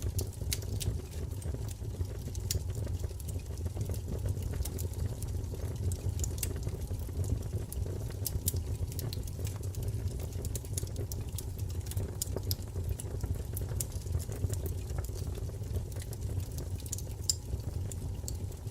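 Wood fire burning: frequent sharp crackles and pops at irregular intervals over a steady low rumble of flame.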